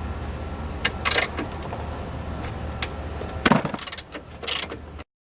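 Ratchet and half-inch socket loosening the negative battery terminal nut: scattered metal clicks and clinks with a couple of short runs of clicking, the loudest clink about three and a half seconds in, over a low steady hum. The sound cuts off suddenly just before the end.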